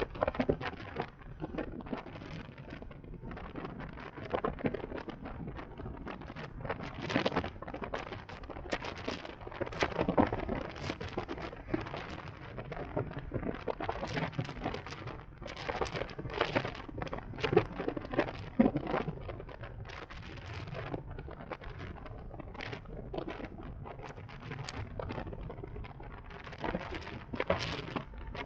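Wind buffeting the microphone of a camera riding on a moving electric motorcycle: an uneven rushing rustle broken by frequent sharp crackles and gusty swells, with no engine sound.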